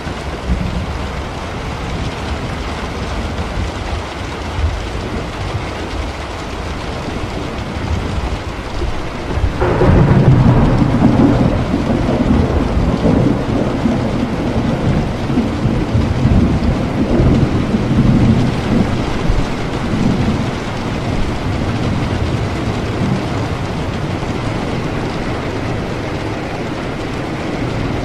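Steady heavy rain, with a thunderclap breaking in suddenly about ten seconds in. The thunder rolls on for about ten seconds, then fades back under the rain.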